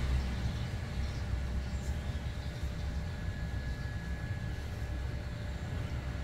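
Small CNC router running while milling PCB traces: a steady low motor hum, with a faint thin whine for a couple of seconds midway.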